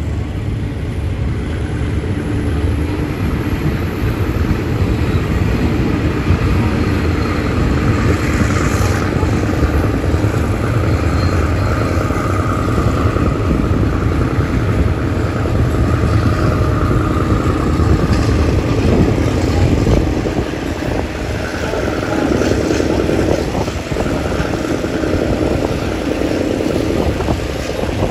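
Diesel-hauled passenger train running, heard from inside a carriage by an open window: a steady rumble of wheels on the rails and the locomotive ahead as the train pulls out of a station and gathers speed.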